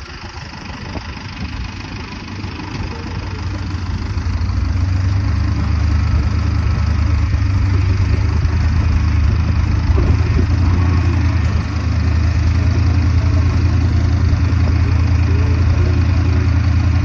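A vehicle engine running with a steady low rumble, growing louder over the first few seconds and then holding even.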